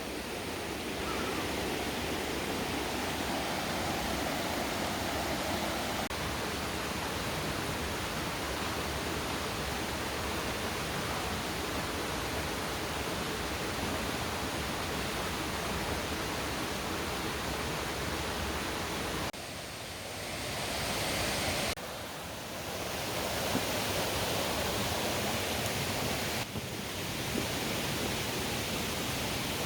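Mountain valley stream, water rushing steadily. The sound dips and shifts briefly about twenty seconds in and again a few seconds before the end.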